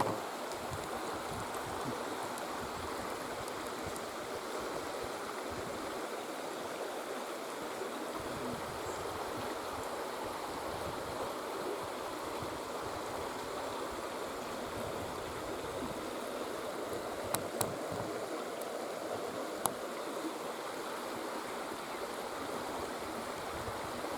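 Steady rush of running water from a stream, with a few sharp clicks in the second half.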